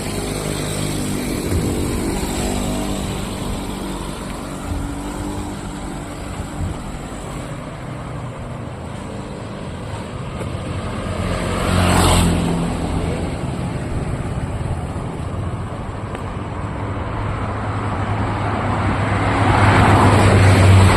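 Street traffic: motor vehicles passing close by, one peaking about twelve seconds in and another growing louder near the end, over a steady hum of road noise.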